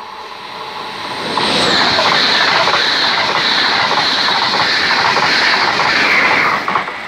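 ÖBB Railjet passenger train passing close by at speed: the noise swells over the first second or so, then a loud steady rush of wheels on rail with a rapid clatter, which falls away suddenly shortly before the end as the last coach goes by.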